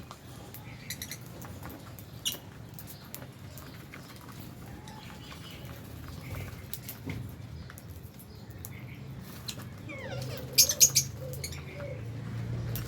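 Flock of lovebirds chirping, with many short chirps and small clicks and taps, and a cluster of loud, sharp calls about ten seconds in. A low steady hum runs underneath.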